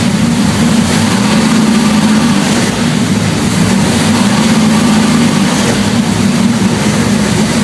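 Jon Kaase 520 cubic inch Boss 429-style big-block Ford V8 with a big cam running steadily on an engine dyno, loud and even with no revving.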